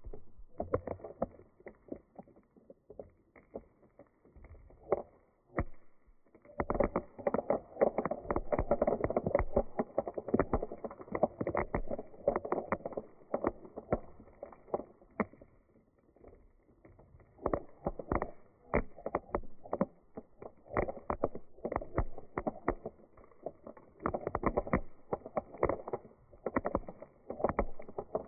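Dried beans rattling and sliding together: a dense patter of tiny clicks that swells into thick waves and thins out between them.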